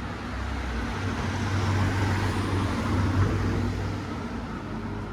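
A motor vehicle driving past on the street: a low engine hum and tyre noise that swell to a peak about two to three seconds in, then fade.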